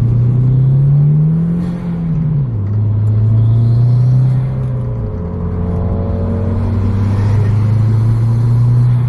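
Turbocharged car engine with an aftermarket intake, revved: its pitch climbs about a second in, falls back by two and a half seconds, holds steady, then drops lower around five seconds and holds there.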